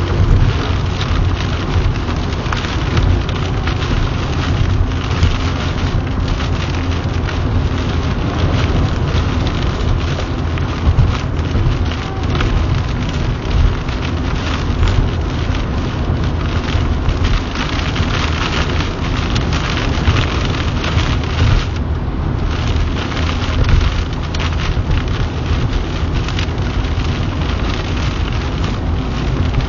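Heavy rain pelting a car's roof and windshield, heard from inside the cabin as a dense patter over a steady low rumble of the car on the wet highway.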